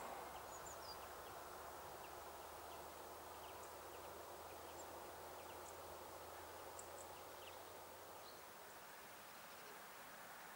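Faint outdoor quiet with a few short, high bird chirps here and there over a soft background hiss and a weak low hum.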